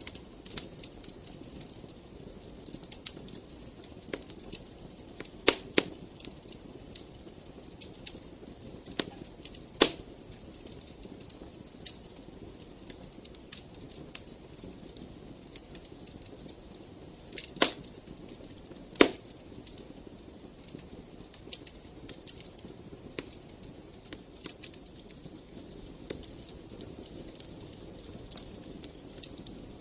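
Wood fire crackling in a fireplace: irregular small snaps and pops over a low, steady hiss, with four louder pops scattered through.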